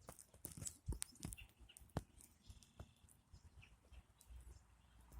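Near quiet with faint bird chirps and a few sharp clicks and taps, most of them in the first two seconds.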